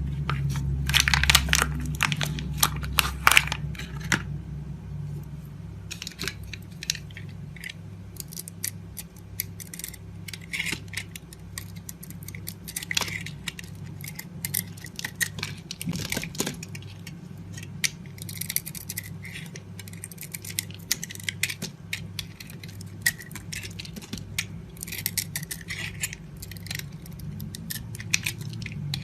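A knife cutting and carving into bar soap: a long run of crisp scraping and crunching strokes, loudest and densest in the first few seconds, over a steady low hum.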